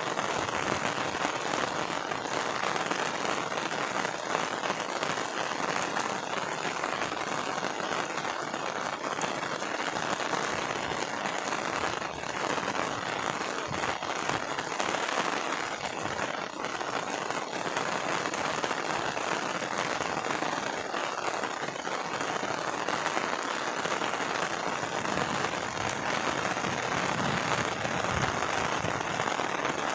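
Steady rain falling: a dense, even hiss of drops that holds level throughout.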